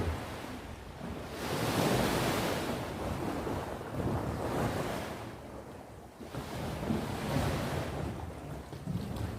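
Sea surf breaking and washing up the shore in slow surges, swelling about a second in, again around four seconds, then ebbing before building once more near the end. A low rumble of wind on the microphone runs underneath.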